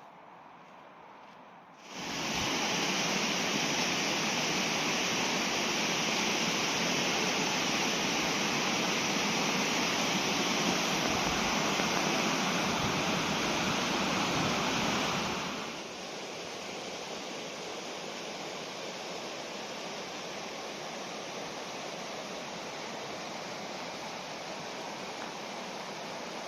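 Fast-flowing river water rushing steadily. It starts abruptly loud about two seconds in, then drops a little past halfway to a quieter, steady rush.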